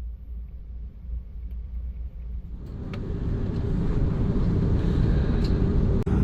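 Steady low rumble of the Airbus A330's Rolls-Royce Trent 700 engines and airframe during taxi, heard inside the cabin. It grows louder from about two and a half seconds in, with a few faint clicks.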